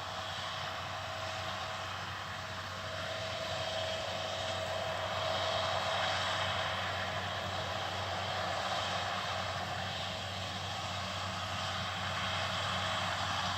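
Distant farm tractor pulling a round baler, its engine giving a steady drone that swells slightly towards the middle and then eases off.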